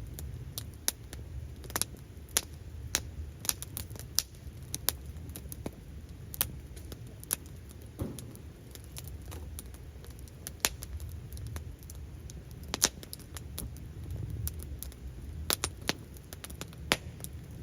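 Wood campfire crackling: irregular sharp pops and snaps, a few a second, over a steady low rumble of the burning fire.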